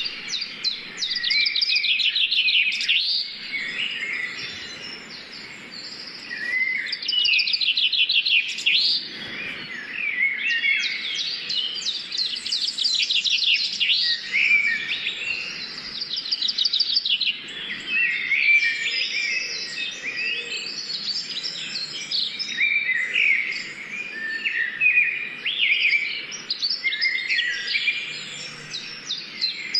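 Songbirds singing: a dense stream of chirps and fast, even trills, several calls overlapping, with a short lull a few seconds in.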